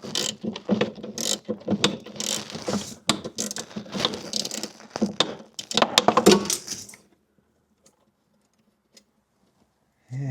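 Ratchet wrench clicking rapidly and irregularly as it works a fastener loose on a Corvette's cruise control unit, with metal tools rattling against each other. The clicking stops about seven seconds in.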